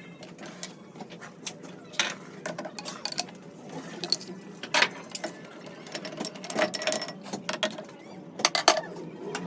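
Light metallic clinks and clicks at irregular intervals over a steady low hum, with the loudest clinks about five seconds in and near the end.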